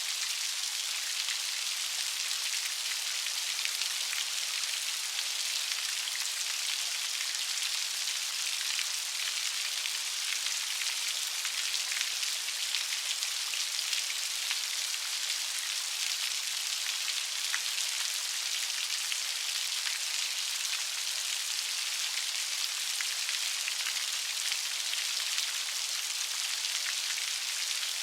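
Steady light rain: an even hiss of fine drops pattering on a surface, with no thunder.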